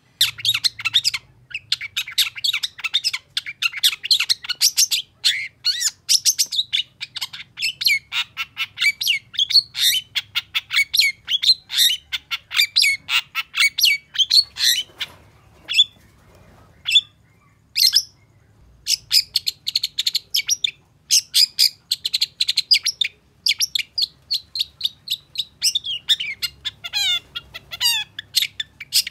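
Long-tailed shrike (cendet) singing a fast, chattering song of harsh, squeaky notes, several a second. It starts abruptly and breaks for a couple of short pauses about halfway through.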